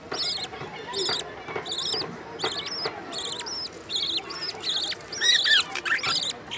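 Baby birds cheeping: short, high-pitched calls repeated about twice a second, with a louder, lower, wavering call about five seconds in.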